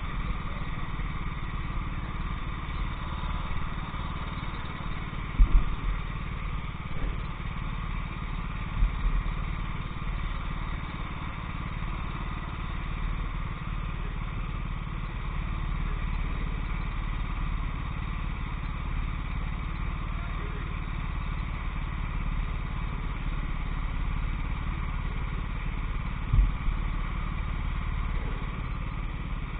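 Racing kart engine running steadily under way, with a few short low thumps about five and a half, nine and twenty-six seconds in.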